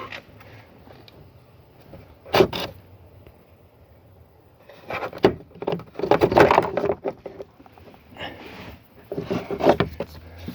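Hands working on car parts: several bursts of clicks, knocks and rattling, the loudest a sharp knock about two seconds in and a longer clattering spell around six seconds in.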